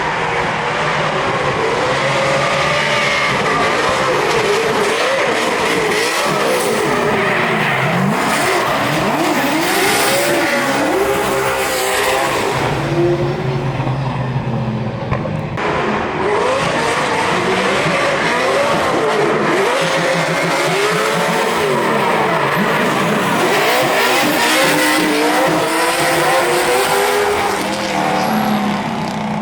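High-revving drift car engines rising and falling in pitch again and again, with tyre squeal and skidding as the cars slide. It is loud throughout, and the sound changes abruptly about halfway through.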